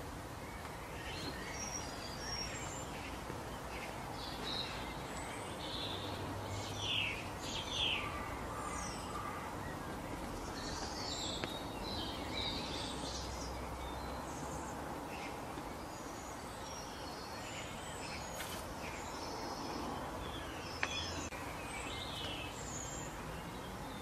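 Birds chirping and calling over a steady outdoor background hiss, with a couple of louder calls about seven to eight seconds in.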